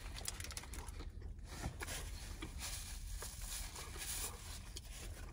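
A person chewing a bite of burger, mouth sounds with the paper burger wrapper crinkling and rustling in many small crackles. A faint steady low hum runs underneath.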